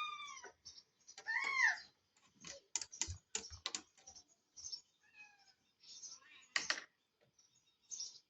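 A cat meows twice in the first two seconds, each call rising and then falling. Then come a series of sharp clicks and crunches, the sound of the cat eating, with a few faint short chirps.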